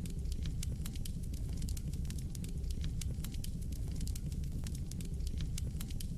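Fire in a fireplace crackling, with many sharp pops several times a second over a steady low rumble of the flames.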